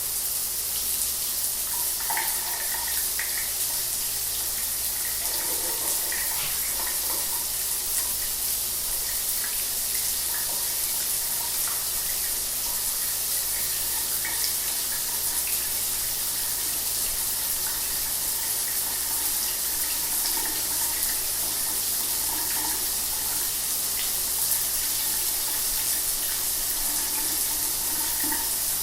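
Shower water running steadily: a constant high hiss of spray with faint splashing.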